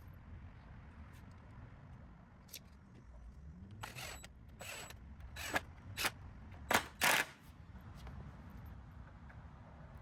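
Handling noise from building a wooden plank fence panel: about five short, sharp scraping or knocking bursts in quick succession about four seconds in, over a low steady rumble.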